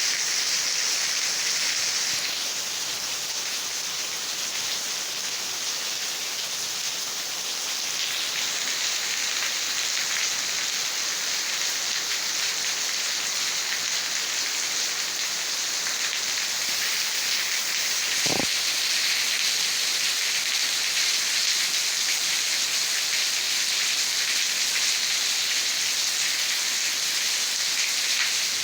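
Steady rain falling on vegetation, an even hiss, with one brief low thump about two-thirds of the way through.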